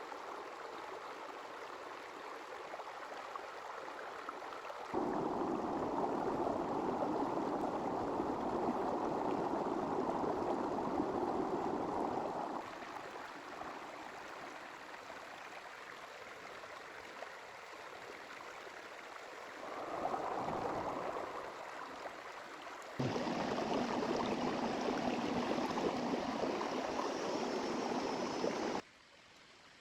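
A small river flowing and burbling over its bed, a steady rush of water. It jumps louder and quieter in sudden steps several times, as the shots change.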